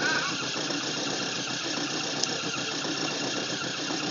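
A stuck truck's engine running steadily under power as the driver tries to drive it free, with a dense, even noise over it.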